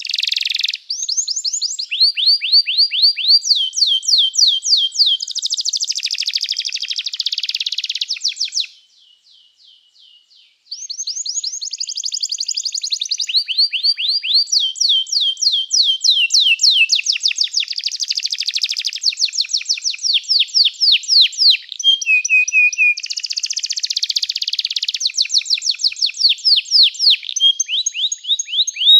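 Domestic canary singing: a long song of fast trills, each a quick run of identical repeated notes that switches to another run, with a pause of about two seconds about a third of the way in.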